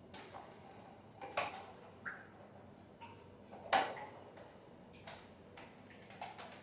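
Irregular sharp clicks and light knocks, about a dozen, with the loudest nearly four seconds in.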